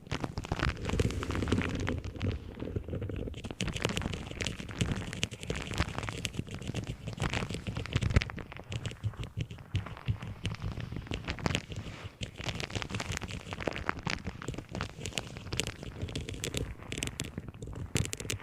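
Objects handled close to the microphone: dense tapping, crackling and scratching, with a low rumble underneath.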